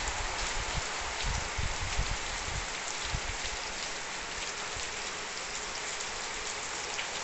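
Heavy rain falling on a concrete yard and tiled roofs, a steady dense hiss, with low rumbling in the first two or three seconds.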